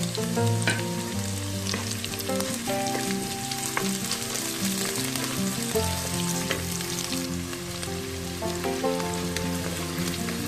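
Ginger, garlic and curry leaves sizzling in hot oil with sautéed onions, stirred with a wooden spoon that now and then clicks against the pot. Background music plays underneath.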